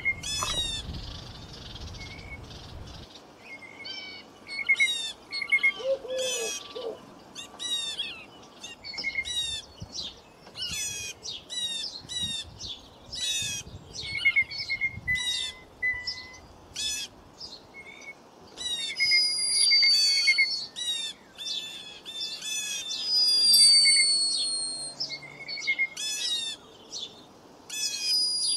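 Birds chirping, many quick sharp calls repeated over and over, with a thin high whistle that falls slightly in pitch heard three times in the second half.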